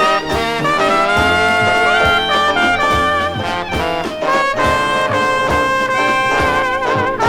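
Dixieland jazz band playing, with trumpet and trombone carrying held, vibrato-laden melody lines over a steady beat.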